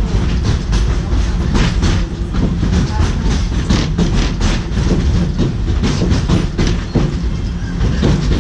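Narrow-gauge passenger train heard from on board: wheels clicking irregularly over the rail joints over a steady low rumble of the cars.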